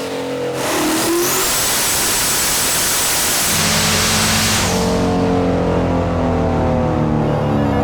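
Turbocharged LS V8 of a 2002 Pontiac Trans Am at full throttle on a chassis dyno, with a high turbo whistle that rises about a second in and then holds. The loud run ends about four and a half seconds in, leaving steadier pitched tones.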